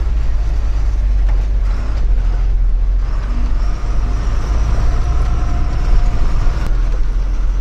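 Truck being driven, heard from inside the cab: steady low engine and road rumble with faint rattles and a light whine over it.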